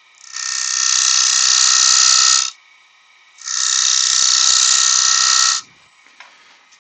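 A turning tool cutting into spalted beech spinning on a wood lathe: two passes of about two seconds each, a second apart, a steady hissing cut that stops sharply each time.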